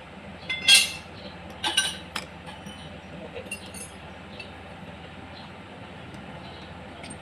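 Sharp metallic clinks of metal tools or engine parts being handled: a loud one just under a second in, a quick cluster of three or four around two seconds in, then a few faint ticks, over a steady low hum.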